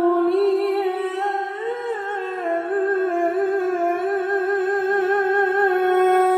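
A male qari's voice reciting the Quran in melodic tilawah style. He holds one long, high, unbroken note with wavering ornaments, drawing out a word.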